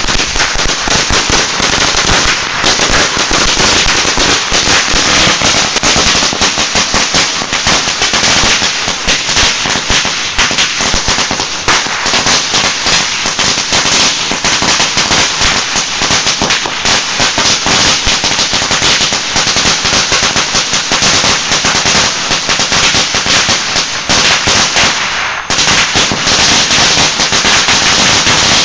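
A long trail of about 500 firecrackers going off in a rapid, continuous string of sharp bangs that run together into a dense crackle. The bangs slacken briefly near the end, then pick up again.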